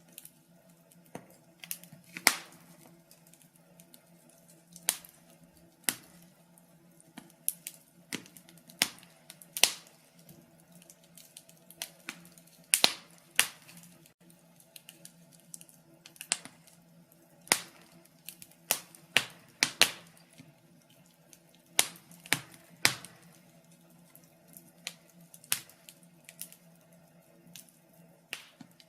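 Wood fire crackling, with irregular sharp pops and snaps of varying loudness, a few every second, over a faint steady low hum.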